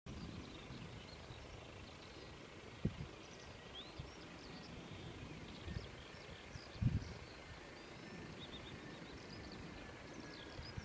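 Small birds chirping and twittering over a steady outdoor background noise, with brief low thumps about three and seven seconds in.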